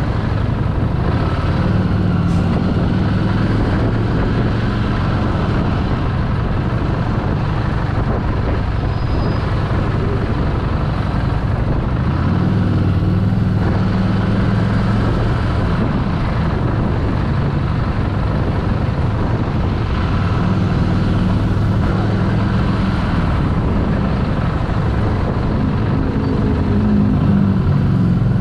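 Harley-Davidson Street 750's liquid-cooled V-twin engine running at low speed, its low note swelling for a few seconds at several points, with traffic noise around it.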